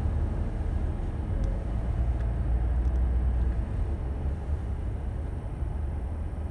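Car driving, heard from inside the car: a steady low rumble of engine and tyres, easing slightly near the end.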